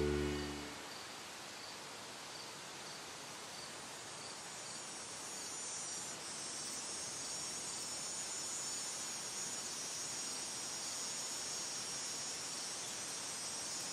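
Music fading out in the first second, then insects chirring steadily, a high hiss that grows a little louder about halfway through, with a faint regular chirp repeating a bit under twice a second in the first half.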